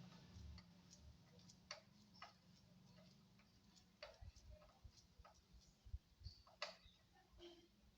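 Near silence with faint, irregular clicks and a few soft low knocks, over a faint steady hum.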